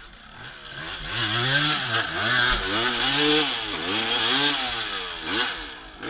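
Dirt bike engine revving up and down over and over, its pitch rising and falling several times a second or so apart.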